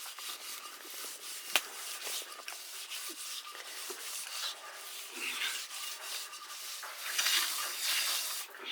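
Continuous scraping and rubbing with scattered small clicks, louder for a stretch near the end.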